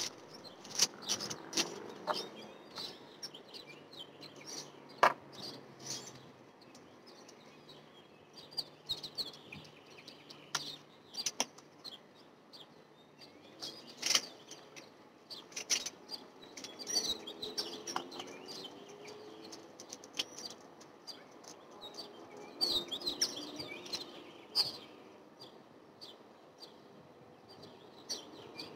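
Small songbirds chirping, with scattered sharp clicks and knocks from things being handled close by.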